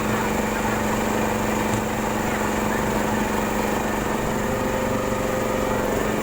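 Boat engine running steadily at constant speed with an even, unchanging pitch.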